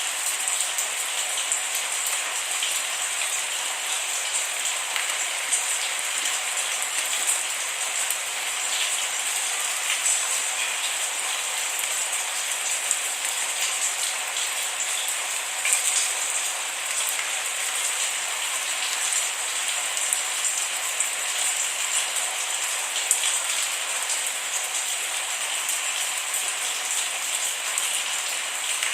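Steady rain falling on a surface, a continuous hiss with many small drop ticks and no thunder.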